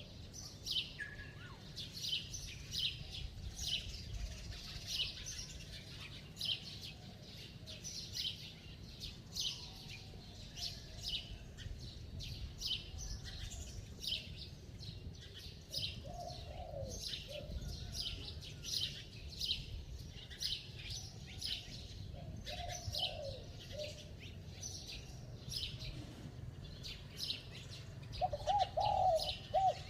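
Spotted dove cooing in short phrases, ending in a louder run of quick coos near the end. Rapid high chirping from small birds goes on throughout.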